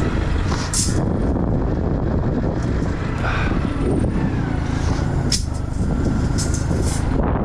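Semi truck's diesel engine running steadily, with a few brief clicks over the rumble.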